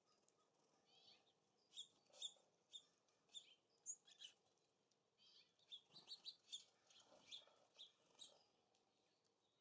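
Small songbirds giving short, high chirping calls, many in quick succession, with a few louder ones in the middle.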